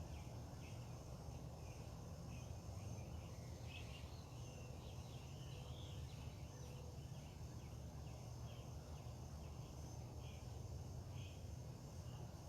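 Faint birds chirping and calling in short scattered notes, over a steady high insect hum and a low rumble.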